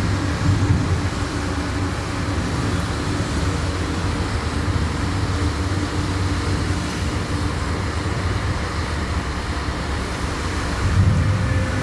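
Steady low rumble and hiss of road traffic, swelling briefly near the end.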